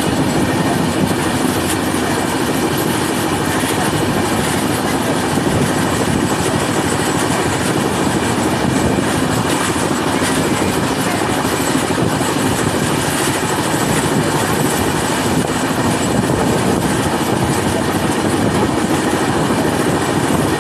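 Passenger train running at speed, heard from the coach's open door: a steady, loud rush of wheels on the rails mixed with wind rushing past the microphone.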